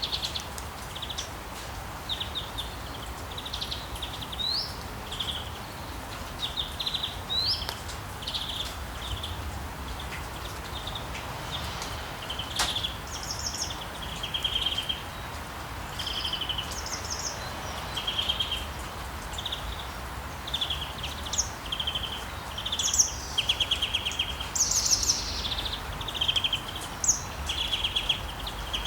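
Songbirds chirping over and over in short, rapid trills, with higher calls joining in the second half, over a steady hiss of sea waves.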